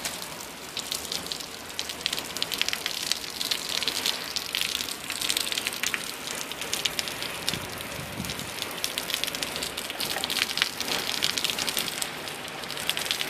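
Heavy rain driven by wind against a window screen, a dense crackle of drops striking that swells and eases.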